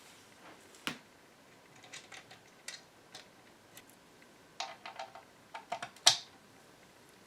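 Small metal hardware and hand tools clicking and clinking during hands-on reassembly. Scattered sharp clicks, then a quick run of ringing metallic clinks past halfway, and a louder click about six seconds in.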